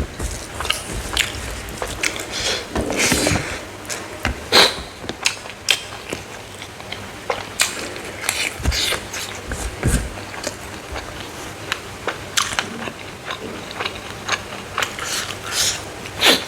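Smoked frog being bitten and chewed up close, with many irregular sharp crackles and crunches, a few of them louder.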